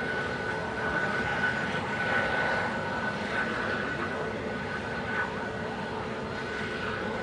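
Airbus A320neo's CFM LEAP-1A jet engines running steadily, a constant high whine over a broad rush of engine noise.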